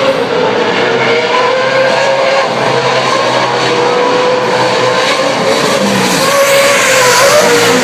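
Race trucks' engines running at speed around the track: a loud, continuous drone whose pitch wavers up and down, growing brighter and a little louder near the end.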